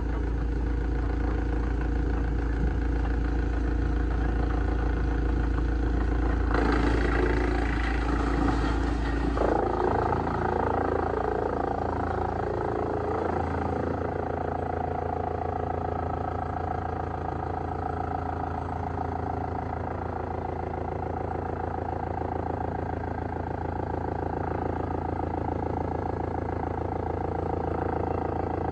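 Heavy industrial wood shredder running with a steady machine drone, with a louder, rougher stretch of grinding noise between about seven and fourteen seconds in.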